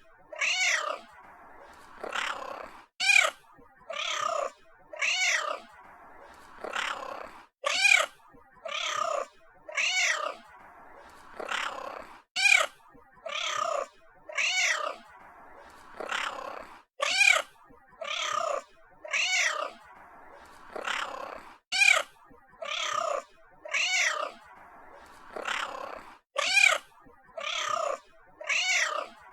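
Domestic cat meowing over and over, about one short meow a second, each one rising and then falling in pitch.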